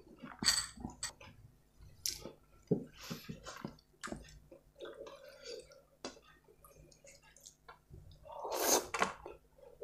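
Close-up wet chewing and mouth smacks of someone eating rice and butter chicken by hand, with the squish of fingers mixing rice on a steel plate. A longer, louder noisy burst comes near the end as a handful goes into the mouth.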